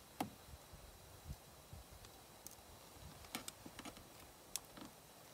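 Faint, irregular light clicks and taps, about a dozen, from hands working with small objects; the sharpest comes right at the start.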